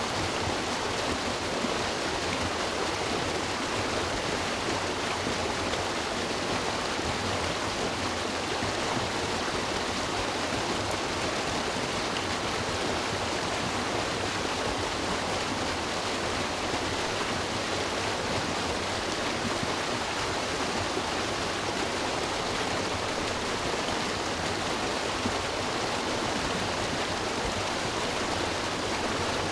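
River water rushing and babbling over rocks, a steady even sound with no breaks.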